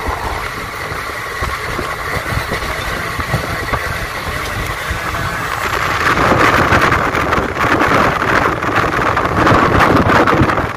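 Indian Railways passenger train running at speed: a steady rumble with a dense clatter of wheels on rails. The noise grows louder about six seconds in, heard from outside the carriage.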